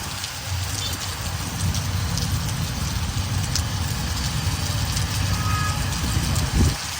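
Steady rain falling, with scattered drop ticks over a constant low rumble. A single low thump comes near the end.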